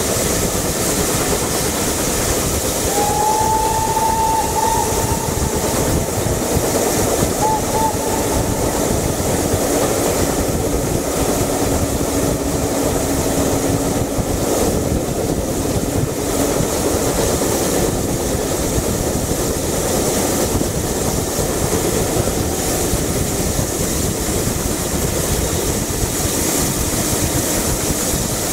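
A steam-hauled passenger train running at speed, heard from an open carriage window: a steady rumble of wheels on the rails and a rush of passing air. A whistle sounds about three seconds in and briefly again near eight seconds.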